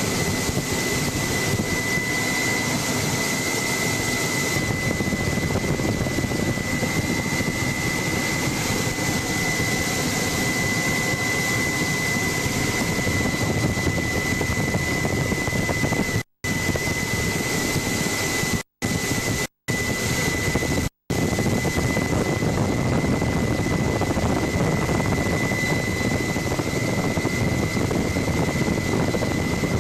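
Helicopter in flight heard from on board: a steady loud din of rotor and engine with a constant high whine running through it. The sound drops out to silence four times, briefly, in the middle.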